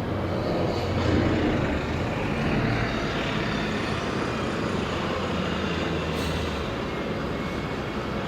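City street traffic: a steady low vehicle hum over road noise, with the hum dropping away about six and a half seconds in.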